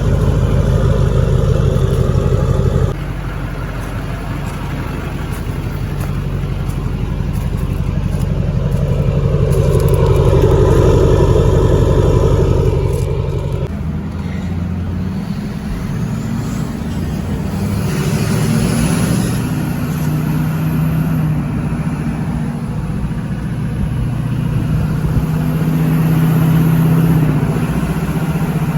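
LLY Duramax 6.6-litre V8 turbo-diesel running through a 4-inch straight-pipe exhaust, its note rising and falling. The sound changes abruptly about three seconds in, and a faint rising whistle comes in a little past halfway.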